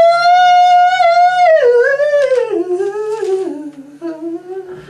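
A voice humming a wordless high note, held for about a second and a half, then sliding down in steps to a lower note that is held near the end.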